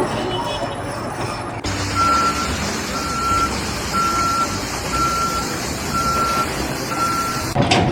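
A vehicle reversing alarm beeping steadily, six single-tone beeps about one a second, over a low engine rumble.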